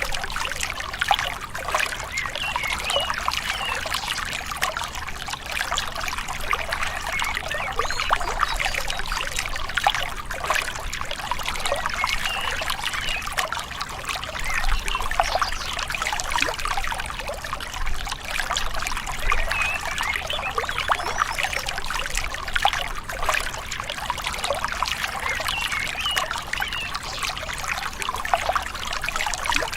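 Shallow river water trickling and burbling over stones, a steady gentle flow with no pauses.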